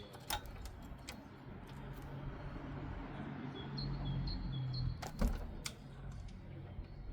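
Sewing machine running for about three seconds, then a few sharp clicks as it stops; the owner says this machine is stiff and sews with difficulty even after oiling. Small birds chirp in the background.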